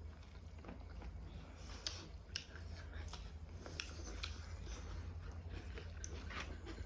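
Close-miked chewing and eating sounds, irregular small clicks and mouth noises as rice and egg curry are eaten, over a low steady hum.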